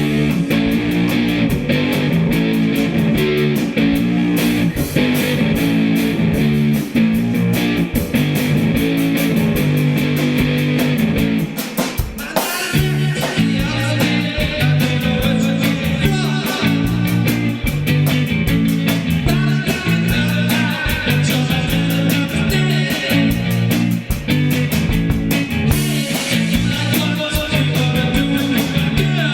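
Rock band music: guitar, bass and drum kit playing together, with a brief break about twelve seconds in before the guitar carries on.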